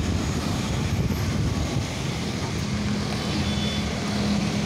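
Daihatsu Xenia MPV driving slowly past with its engine running over steady street-traffic rumble. A low, steady engine hum comes in about halfway through.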